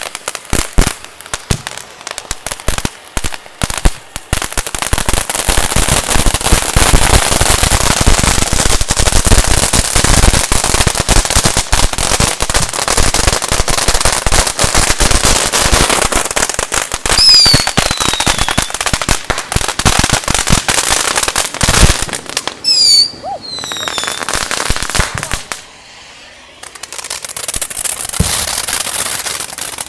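Fireworks and firecrackers going off in a dense, rapid run of crackling pops, with brief falling whistles about 17 and 23 seconds in and a short lull near the end.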